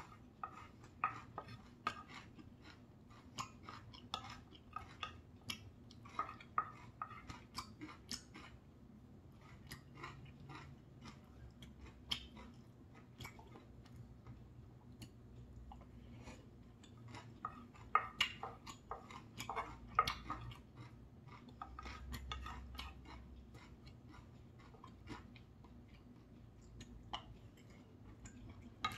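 Close-miked chewing and mouth sounds of eating quinoa rice with soybean paste and fresh greens, with scattered clicks and scrapes of wooden utensils on a ceramic plate. The clicks come in clusters, busiest in the first several seconds and again past the middle.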